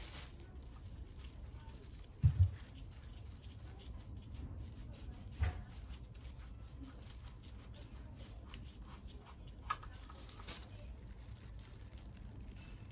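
Two dull thumps about three seconds apart, then a faint click, over a low steady background rumble.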